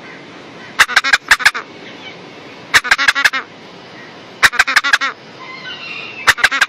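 Baby yellow-crowned amazon parrot begging for food: bursts of four to six quick, harsh squawks, repeated about every two seconds.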